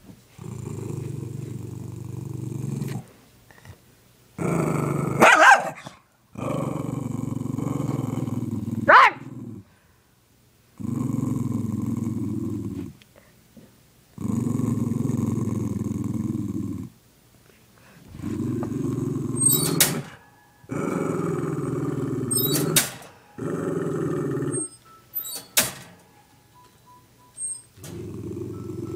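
A dog growling in long, low, rumbling growls, one after another with short pauses: resource guarding, warning off a hand reaching for her biscuit. A few short sharp sounds break in between the growls.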